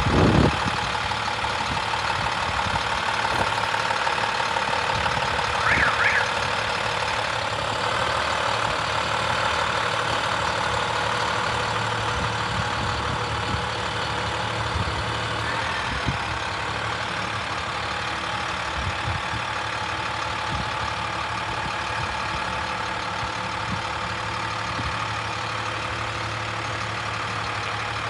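MaxxForce DT inline-six diesel of an International 7400 utility truck idling steadily, with a knock right at the start and a short clatter about six seconds in.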